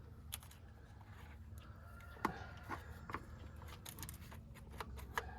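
Scattered light clicks and taps of hand tools at work, with a chicken clucking faintly in the background.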